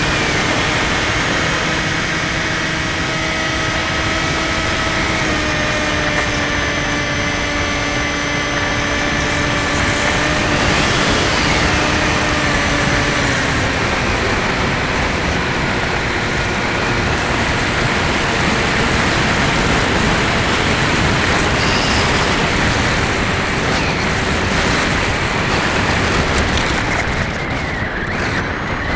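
Skywalker 1680 RC plane's electric motor and propeller whining steadily in flight under constant wind rush. The whine sags slightly in pitch over the first dozen seconds, then sinks into the wind noise.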